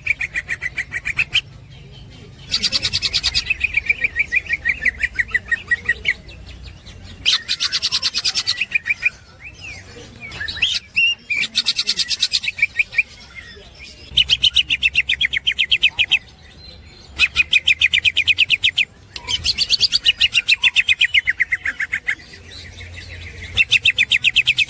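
Cucak hijau (green leafbird) singing in its 'ngekek' style: bouts of fast, evenly repeated chattering notes, each lasting one to two seconds, coming about eight times with short pauses between.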